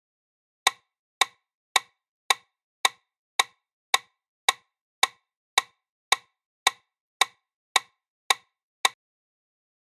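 Sixteen sharp, identical metronome clicks, evenly spaced at about 110 a minute, the pace for chest compressions. They stop about nine seconds in.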